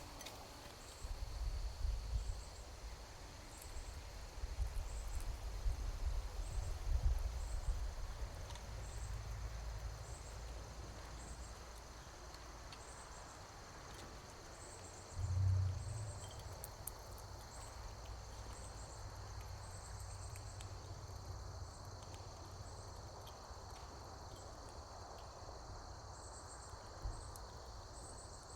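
Insects calling: a steady high drone with short, high chirps repeating about once a second. Low rumbling comes and goes under it, heaviest through the first ten seconds, with a brief surge about fifteen seconds in.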